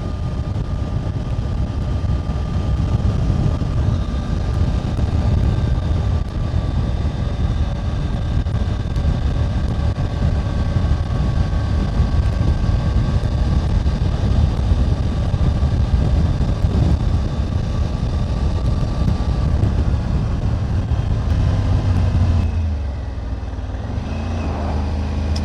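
A Triumph Tiger 900 GT Pro's three-cylinder engine running while the bike is ridden at a steady speed, under a heavy low rumble of wind and road noise. Near the end the rumble drops and the engine note comes through more clearly as the bike slows.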